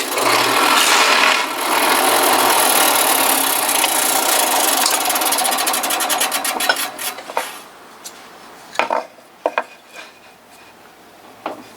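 One-inch Forstner bit in a drill press cutting through a maple blank, a loud rasping bore that lasts about seven seconds, finishing the hole from the flipped side to avoid tear-out. A few knocks follow as the wood is handled.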